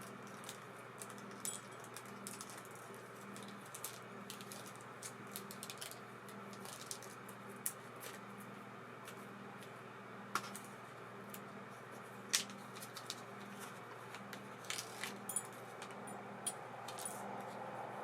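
Small metal parts of an ABU Ambassadeur 2500C baitcasting reel clicking and clinking irregularly as the reel is handled and worked on, over a low steady hum.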